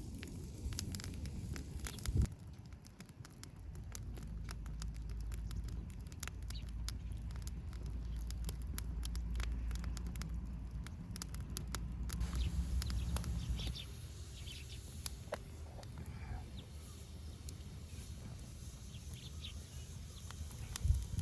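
Wood fire crackling in a fire pit: dense sharp pops and snaps for the first twelve seconds or so, thinning out after, over a low steady rumble.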